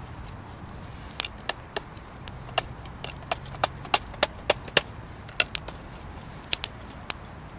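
Wood bonfire crackling, with sharp, irregular pops and snaps that come thickest through the middle of the stretch.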